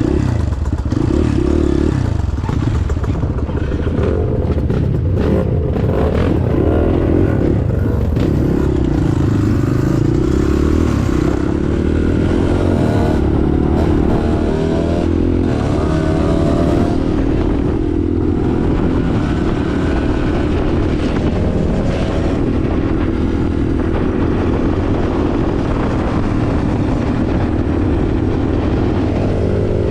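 Small single-cylinder trail bike, a Kawasaki KLX140G, riding along a dirt trail: its engine runs continuously, the pitch rising and falling as the throttle is worked, with a low rumble underneath.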